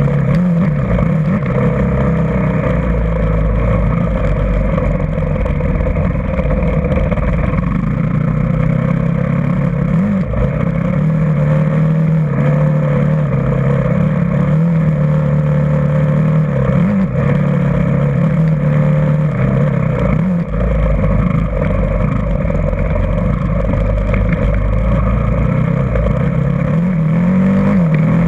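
Motocross dirt bike engine running under way, its pitch rising and falling with the throttle.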